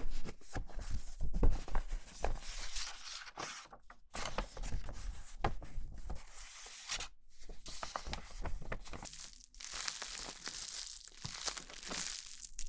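Crinkly material being crumpled and handled close to the microphone: irregular crackling with many small sharp crackles, pausing briefly a few times.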